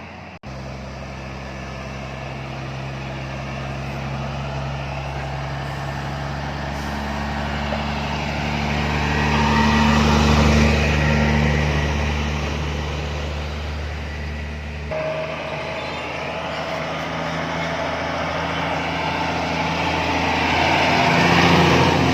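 Heavy diesel container truck's engine pulling up a mountain grade as it drives past. It gets louder to a peak about ten seconds in, then eases off. The engine note changes abruptly about fifteen seconds in and swells again near the end.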